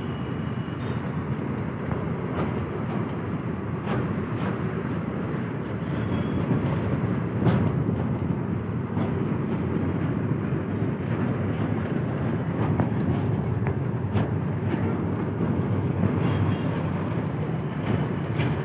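Freight train of flat wagons rolling past on the adjacent track, a steady rumble of steel wheels on rail with occasional sharp clicks and clanks.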